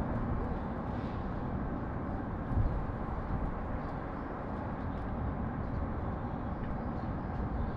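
Steady rumble of city traffic, with a brief low thump about two and a half seconds in.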